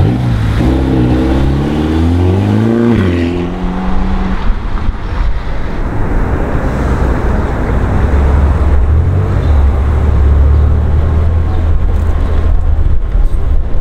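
Ferrari California T's twin-turbo V8 revving as it pulls away, its pitch rising over the first three seconds. Then a BMW M6 convertible's twin-turbo V8 rumbles low and steady as it drives by in traffic.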